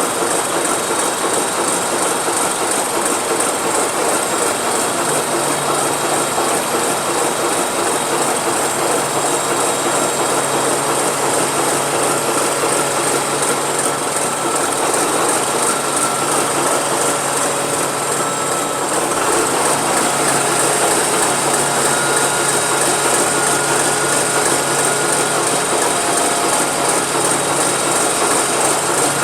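Ship's diesel engine running steadily with a dense mechanical clatter, freshly started and under test while its governor settings are checked. Its sound steps up a little about two-thirds of the way through.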